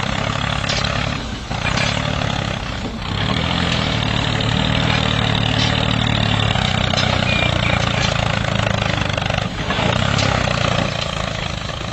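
An engine or motor running steadily, with a few faint clicks.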